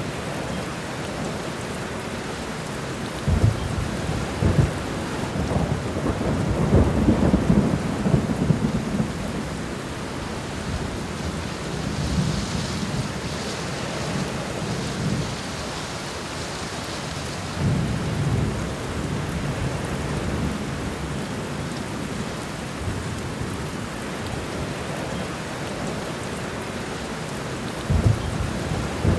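Thunderstorm: steady rain with rolling thunder. A clap about three seconds in is followed by a long rumble that is loudest around seven to eight seconds in. Fainter rumbles come later, and another sharp clap comes near the end.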